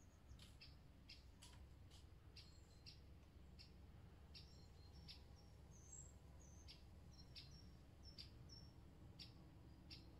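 Faint, short, high bird chirps, about two a second, over a low steady rumble.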